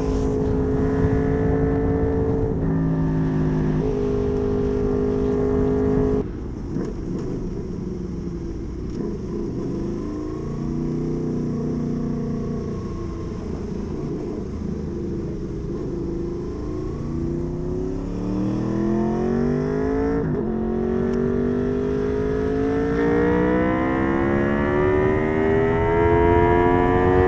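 Honda VFR800's V4 engine through a custom exhaust, running under way. It holds a steady pitch at first, then drops to a quieter, duller note about six seconds in as the throttle closes. The revs rise again toward twenty seconds, break sharply at a gear change, and climb steadily to the end.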